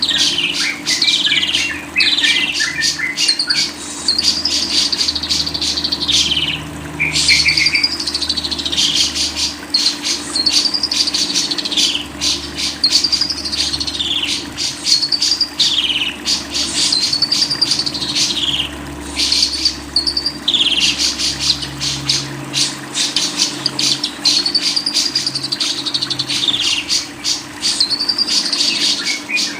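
A songbird singing continuously: a fast chattering trill with arching whistled notes repeated every second or two.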